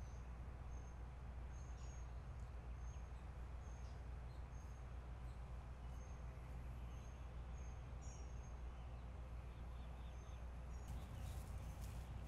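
Faint outdoor backyard ambience: a steady low rumble, with a bird's short high chirps repeating about once every second. A burst of sharp crackling clicks comes near the end.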